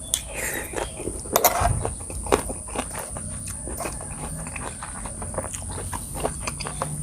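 Close-miked eating: irregular crunching and wet chewing of a spicy seafood salad with fresh raw vegetables, with a louder burst of crunching bites about a second and a half in. A steady high-pitched whine runs underneath.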